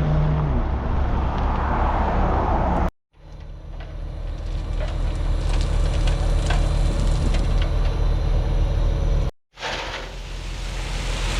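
Diesel engine of heavy equipment running steadily under load, with scattered rattles and clanks. The sound breaks off abruptly twice.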